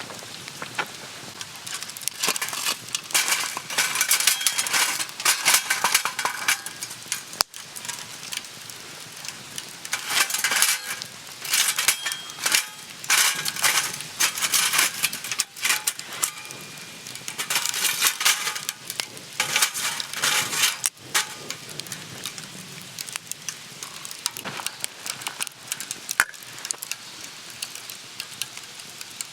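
A metal utensil clinking rapidly against cookware in three long runs of clatter with quieter pauses between, as ingredients are stirred and mixed for monjayaki.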